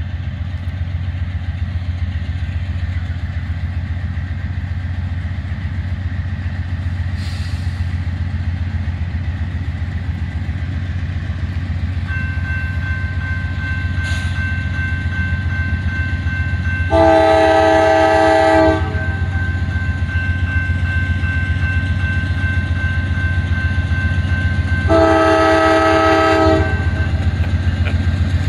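Diesel locomotives of a freight train running with a steady low rumble. The multi-note air horn sounds two long blasts, one just past the middle and one near the end, and a faint steady whine joins about halfway through.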